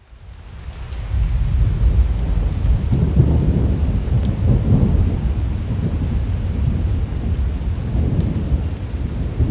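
Constant rolling thunder: a deep rumble that swells and ebbs without a break, over a steady hiss of rain. The sound fades in during the first second.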